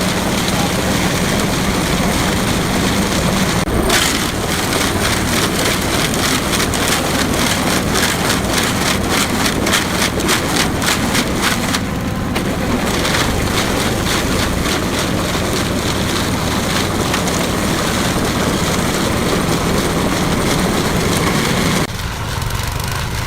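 Concrete mixer running: a steady engine hum under continuous loud clatter, with a dense rapid rattle through the middle. It drops somewhat in level near the end.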